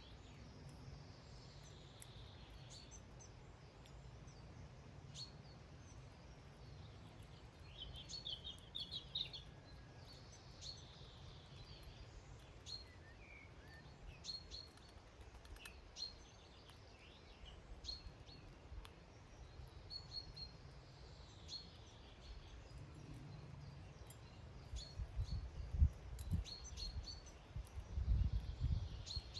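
Small garden birds giving short high chirps and calls scattered throughout, with a quick run of chirps about eight seconds in. A low rumble swells near the end.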